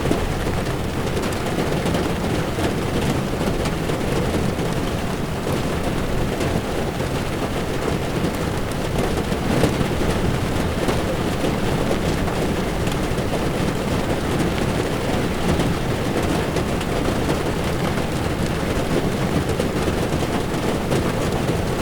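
Heavy rain falling on a car's windshield over the steady low rumble of tyres on a wet road, heard from inside the moving car.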